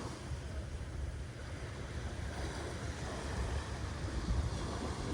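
Ocean surf with wind buffeting the microphone: a steady rushing with a low, uneven rumble.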